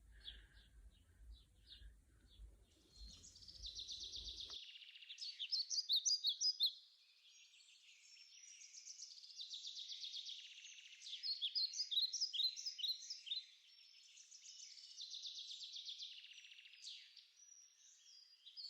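Birds chirping and trilling in repeated phrases of a few seconds each. A faint room hum under the first few chirps cuts off suddenly about four and a half seconds in, leaving only the birdsong.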